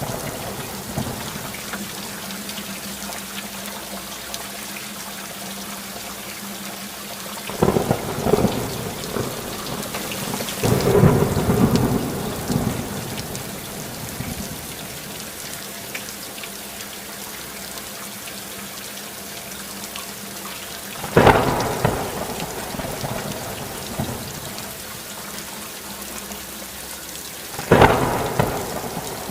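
Steady heavy rainfall hissing, with thunder cracking and rumbling four times: about a quarter of the way in, a longer low rumble just after, again about two-thirds in, and once more near the end.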